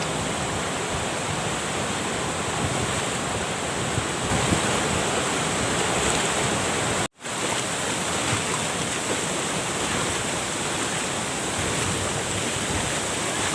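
Waterfall water rushing in a steady, even roar, cut to silence for a split second about halfway through.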